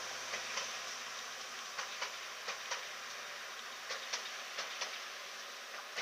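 TransPennine Class 185 Desiro diesel multiple unit moving away, its running noise a steady hiss that slowly fades. Its wheels click over rail joints in pairs of quick clicks, a pair every second or so.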